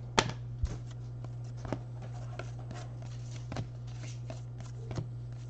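Baseball trading cards being handled and flipped, giving scattered light clicks and rustles, the sharpest about a fifth of a second in. A steady low electrical hum runs underneath.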